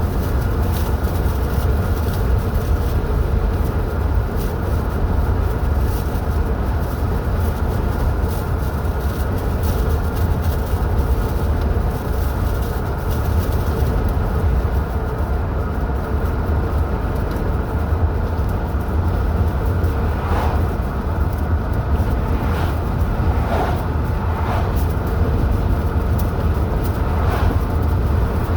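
Car driving on a highway: a steady, deep rumble of road and engine noise. A few brief faint higher sounds come through about two-thirds of the way in.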